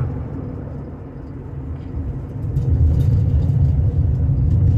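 Road noise inside a moving car: steady low engine and tyre rumble that grows louder about two and a half seconds in.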